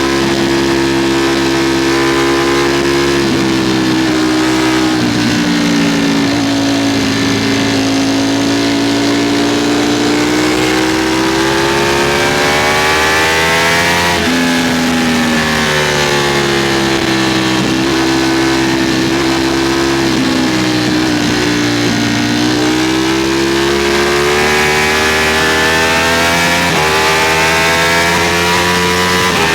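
Ducati Streetfighter V4's V4 engine at speed, heard on board: the engine note rises and falls in long, slow swells as the throttle is worked. There is a quick jump in pitch about halfway through, with rushing noise throughout.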